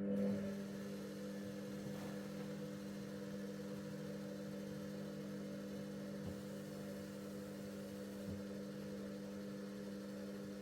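Bauknecht WA PURE ST 14 FLD washing machine's drum motor starting abruptly and turning the drum at a steady low speed, a steady hum, during the steam self-clean cycle's back-and-forth tumbling. A couple of faint knocks are heard partway through.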